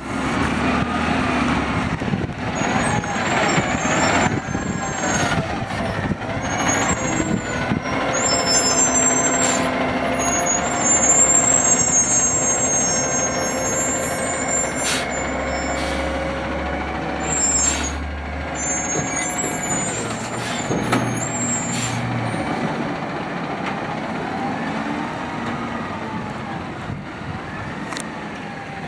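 Automated side-loader garbage truck working its hydraulic arm with the engine held at idle: a whine that rises and falls in pitch, high squeals, and a few sharp knocks between about 15 and 19 seconds in. The sound fades toward the end.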